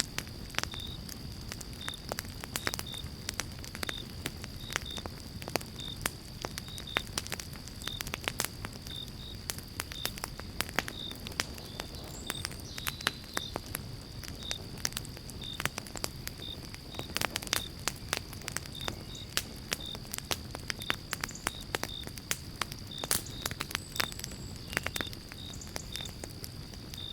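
Pine-log campfire crackling, with many sharp, uneven pops over a low steady rumble of the flames. Behind it, a cricket chirps at an even pace, a little under once a second.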